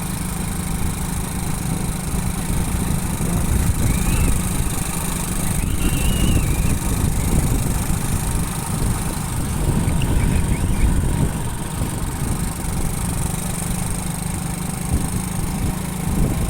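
Motorcycle engine running with a steady hum, over a constant low rumble of noise.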